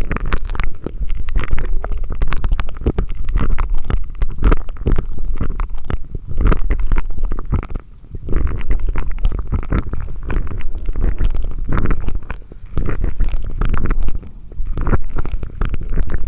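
Close-miked ASMR mouth sounds: a dense run of wet clicks and crackles over a low rumble, pausing briefly a few times.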